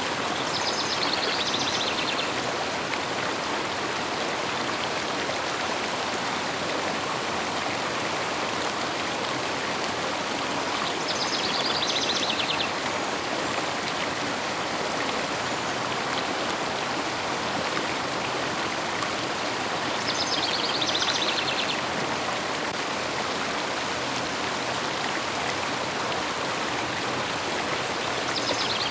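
Steady rushing of a flowing river. A bird sings a short, rapid trilled phrase that repeats about every nine seconds.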